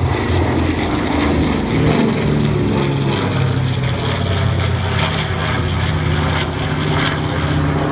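Piston aero engines of WWII propeller warbirds running steadily in a flypast: a loud, even engine drone.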